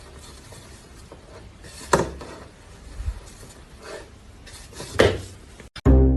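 Two sharp clattering knocks, about three seconds apart, over a steady background hiss, with a few fainter knocks between them.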